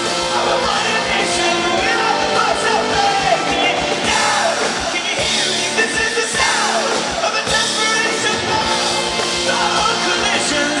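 Rock band playing live and loud, with drums, amplified guitars and a voice singing over them.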